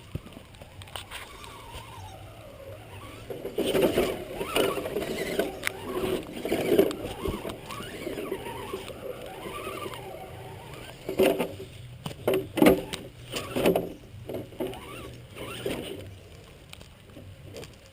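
Battery-powered radio-controlled truck driving over rough ground: its electric motor whines up and down in pitch, with sharp knocks and rattles about two-thirds of the way in as it bumps along. Its battery is running low.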